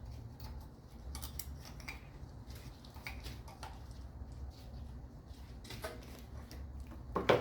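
Light clicks and rustles of hands working hoses and connectors around an engine's intake manifold, over a steady low hum, with a louder knock just before the end.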